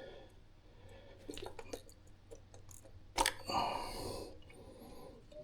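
Faint handling clicks on a carburetor, then one sharp crack as the gummy float bowl of an S&S Super E carburetor breaks loose, followed by about a second of rustling noise.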